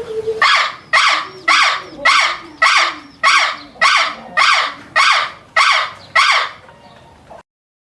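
An animal's harsh call repeated about eleven times in an even series, a little under two calls a second, then stopping abruptly.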